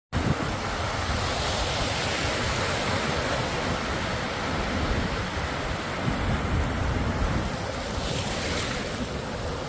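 Atlantic Ocean surf breaking on a sandy beach, a steady unbroken wash of waves, with wind rumbling on the microphone.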